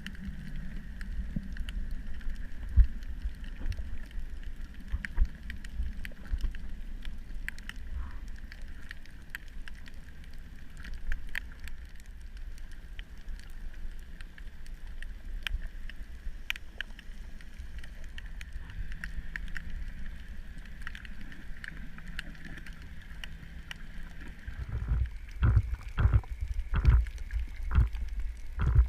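Underwater ambience recorded on a coral reef: a steady low rumble of moving water with scattered sharp clicks and crackles. Heavier thumps come in the last few seconds.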